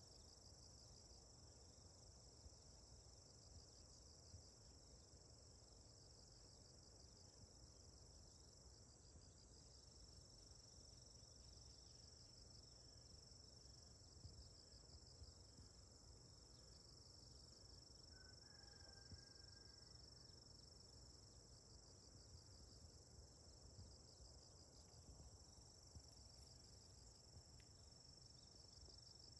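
Faint, steady insect chorus from the surrounding forest: a continuous high-pitched trilling with a fine regular pulsing.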